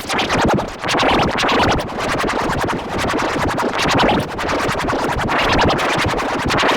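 Loud, distorted electronic remix audio, chopped into a rapid stutter like record scratching, over a smeared, wavering tone.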